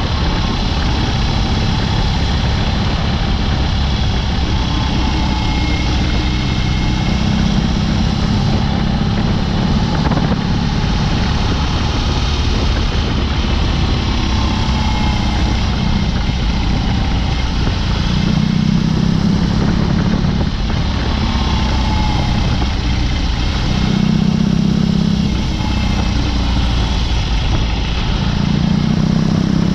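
BMW R18's big two-cylinder boxer engine running through a Dr. Jekill & Mr. Hyde aftermarket exhaust while the motorcycle is ridden, a loud, steady exhaust note that swells for a second or two several times as the throttle is opened.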